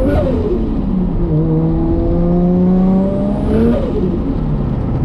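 Modified RB25DET turbocharged straight-six in a Nissan Skyline R33 under hard acceleration: the engine note climbs with a high turbo whistle rising alongside it. It peaks and falls twice, once just after the start and again about three and a half seconds in.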